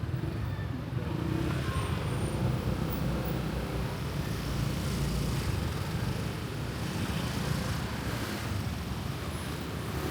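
A road vehicle driving along: a steady low rumble with rushing noise over it.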